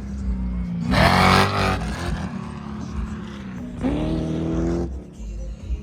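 A vehicle engine idling, revved up briefly twice: once about a second in and again about four seconds in.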